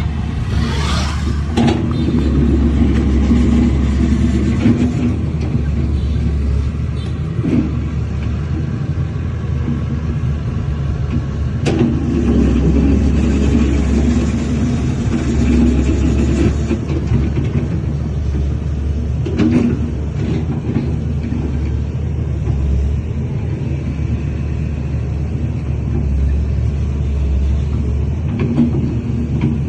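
Heavy diesel construction machinery running under load, a steady low rumble that swells and eases. A few sharp knocks, like metal clanks, come through it.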